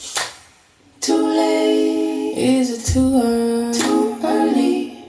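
Closing bars of a soul-jazz song: layered female voices sing long held notes over a low plucked bass note, then die away near the end.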